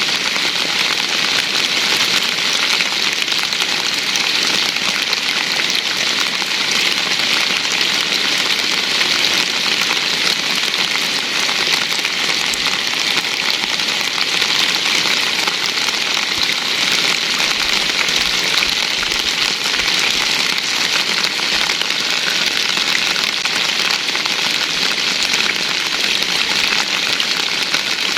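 Steady heavy rain falling and pattering on surfaces, an even hiss.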